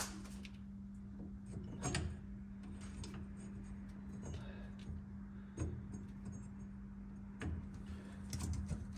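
A few scattered metallic clicks and knocks from hand tools and parts while a bolt is fitted, over a steady low hum.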